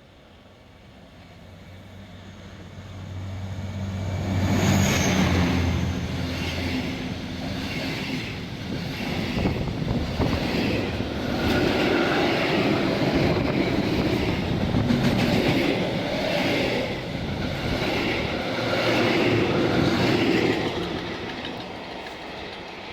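A freight train passes at speed: the locomotive's low hum builds as it approaches, then the wagons go by with a regular clickety-clack of wheels over the rail joints. The sound cuts off suddenly at the end.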